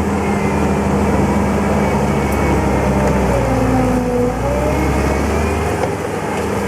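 JCB 205T skid steer loader's diesel engine running steadily, with a fainter whine that dips and rises in pitch about halfway through.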